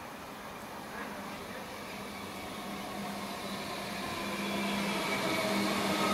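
Alstom Comeng electric suburban train approaching and pulling into the platform, a steady hum and rail noise growing steadily louder as it nears, with more whining tones coming in near the end.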